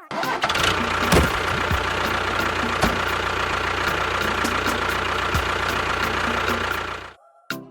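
Engine running steadily, like a tractor idling, with a few clicks over it; it cuts off abruptly about seven seconds in.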